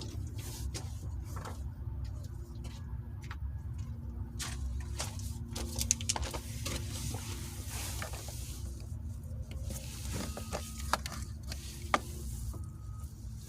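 Scattered sharp metal clicks and knocks of hand tools and parts being handled while the shifter assembly is taken out of the car. Underneath are a steady low rumble and a faint steady hum.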